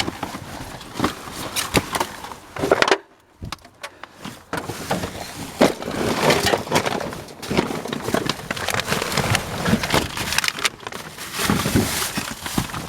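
Junk being dug through and shifted by hand in a dumpster while searching for copper wire: irregular clattering, scraping and cracking, with a short lull about three seconds in.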